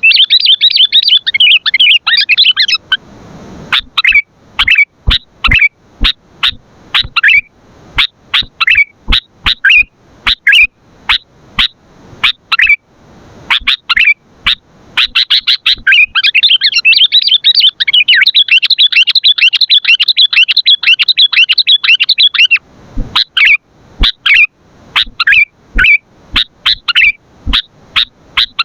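Sooty-headed bulbuls (kutilang) calling: a rapid chattering run at the start and another from about 15 to 22 seconds in, with short, separate chirps several times a second in between.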